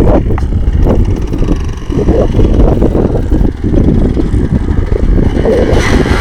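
Yamaha Blaster quad bike's two-stroke single-cylinder engine running, its level rising and falling unevenly.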